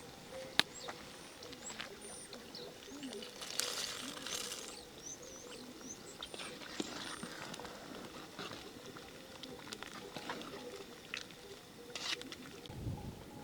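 Small birds chirping faintly, with scattered sharp clicks and knocks and a brief rustling noise about four seconds in.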